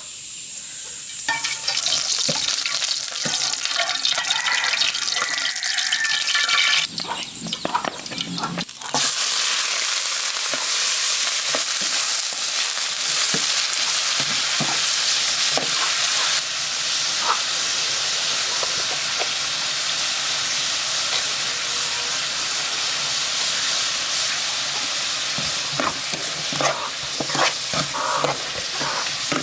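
Food sizzling as it fries in a hot pan, a steady loud hiss with scattered clicks and scrapes of stirring. The sizzle starts about a second in and dips briefly partway through.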